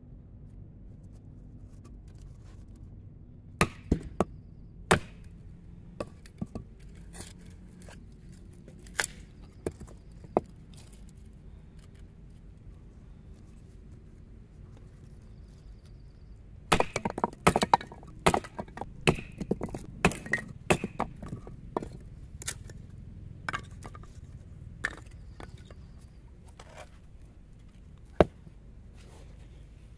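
Wood being chopped and split with a Ka-Bar BK2 knife: sharp cracking strikes, a few spaced out early, then a quick flurry for several seconds after the middle, and one last strike near the end.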